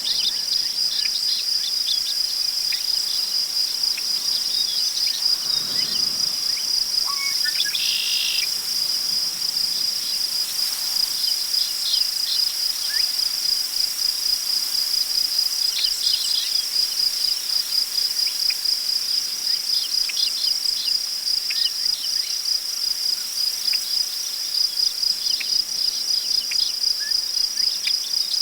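Crickets trilling in a steady, high, finely pulsing chorus, with scattered short bird chirps over it. A soft gust of wind through tall prairie grass rises and fades around five to six seconds in.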